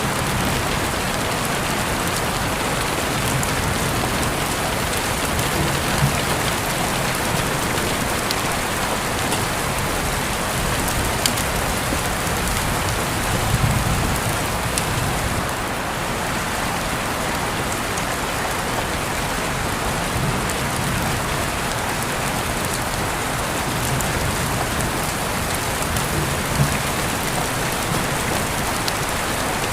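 Steady rain falling on a surface, an even hiss with scattered sharper drop taps and a brief low thump about halfway through.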